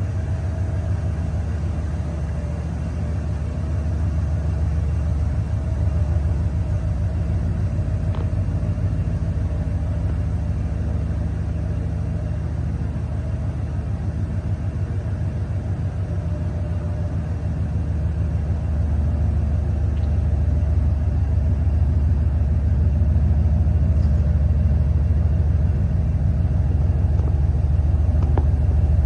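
Ford F350 pickup truck's V8 engine idling steadily with a low rumble, a little louder from about two-thirds of the way through.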